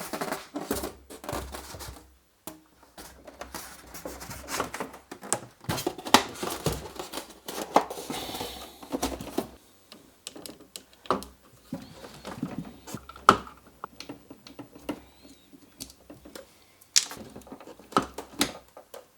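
Clicking, tapping and clattering of small plastic and metal parts as an LGB G-scale model locomotive is handled and taken apart by hand, with many short irregular knocks.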